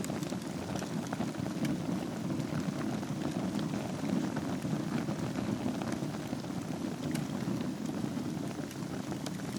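Wood fire burning in a fireplace over embers: a steady low rush of flames with scattered small crackles and pops.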